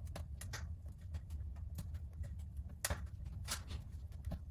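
Wood fire crackling inside a newly installed wood-burning fireplace: irregular sharp pops and snaps, a few a second, over a low steady hum.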